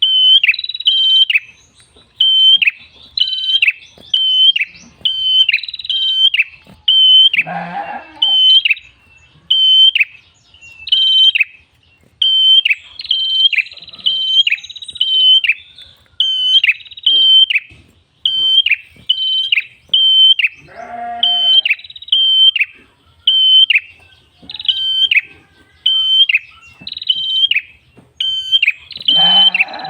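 Red-headed prenjak (tailorbird) singing a loud, high, repetitive song of short sharp chirps in quick pairs, about two a second. Now and then a longer falling whistle, and three times a harsher buzzy call.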